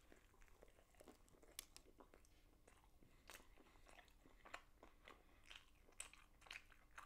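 Faint chewing of a mouthful of chicken fillet burger sandwiched between glazed donuts, with soft crunches and clicks at irregular intervals.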